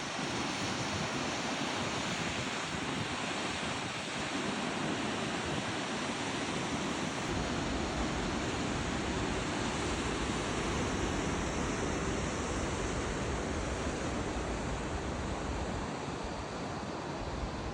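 Steady rush of a river's falls, an even wash of water noise. Wind rumbles on the microphone from a little under halfway through.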